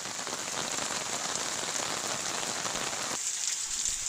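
Rain falling steadily on hard surfaces, a dense even patter of drops. About three seconds in the deeper part of the sound cuts off abruptly, leaving a thinner, higher hiss of rain.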